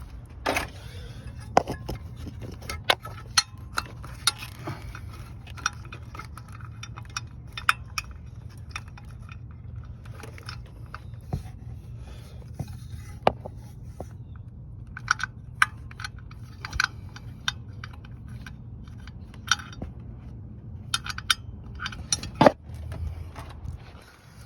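Metal hand tools clinking and clanking against metal parts in irregular, scattered knocks, a few sharper ones standing out, over a steady low hum.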